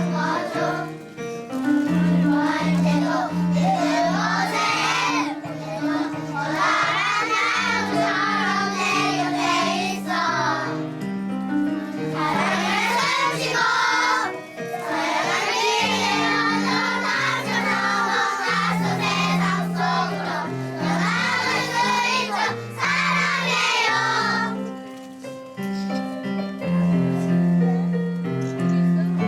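A group of young children singing a song together over instrumental accompaniment with held notes. The voices stop for a couple of seconds about 25 seconds in while the accompaniment plays on, then come back near the end.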